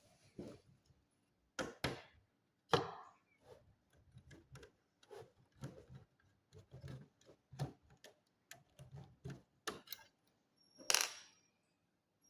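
Irregular clicks, taps and knocks of hands and tools working on the plastic case of an all-in-one PC, with one louder clack near the end.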